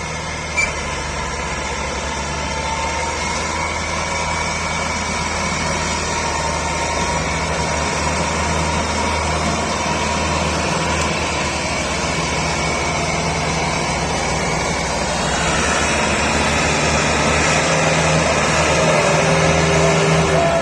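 Tractor engine running steadily, getting a little louder in the last few seconds, with a short sharp knock about half a second in.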